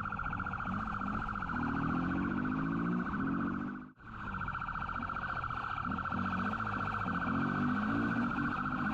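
Police siren sounding a steady, rapidly pulsing wail over a motorcycle engine whose revs rise and fall during a pursuit. The sound cuts out briefly about four seconds in.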